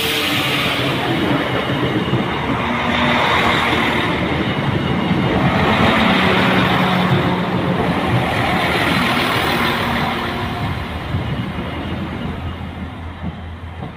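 Translink diesel multiple unit passing close by over a level crossing: the rumble of wheels on rail and a steady underfloor engine hum, fading over the last few seconds as the train clears the crossing.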